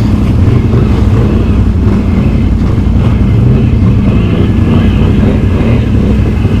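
Can-Am Outlander ATV's V-twin engine running steadily at low speed close to the microphone, with no big revs.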